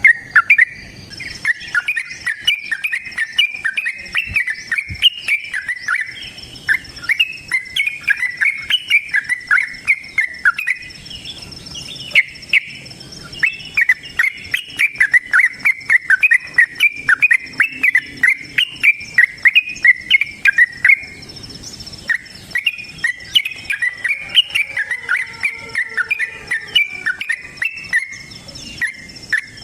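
Yellow-vented bulbul singing long runs of rapid, bubbling chattering notes in fighting song, with short breaks about a third and two-thirds of the way through. A steady high-pitched buzz runs underneath.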